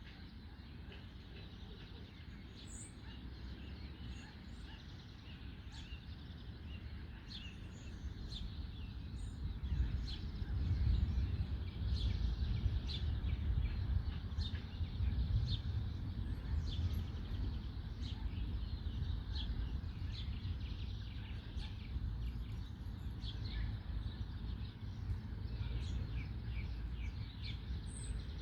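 Songbirds singing in the trees, many short chirps and calls overlapping, over a steady low rumble that swells about a third of the way in.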